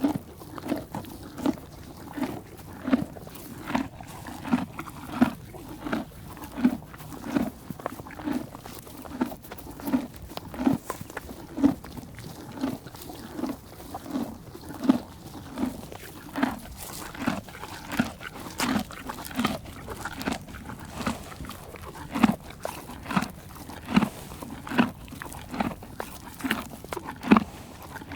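An animal chewing and crunching food in a steady rhythm, about two chews a second.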